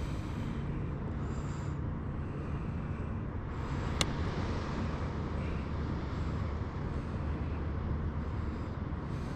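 Steady low rumble of water and wind around a kayak, with soft splashy hisses every second or two and one sharp click about four seconds in.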